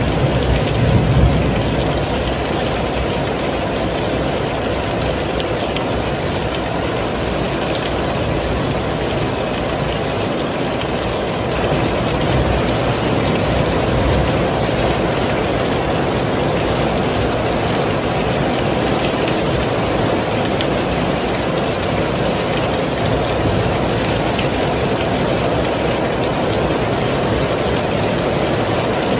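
Heavy rain falling steadily, a dense even wash of noise, with a brief low rumble about a second in.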